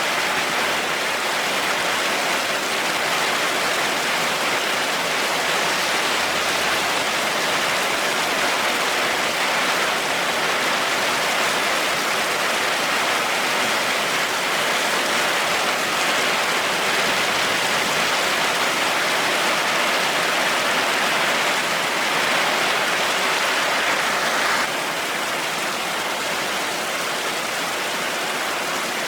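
Heavy rain falling steadily, a dense even hiss with no thunder, dipping a little in level near the end.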